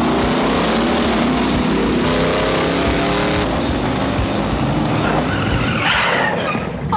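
Monster truck engines revving hard at racing speed, their pitch climbing in several surges, with tyre noise underneath.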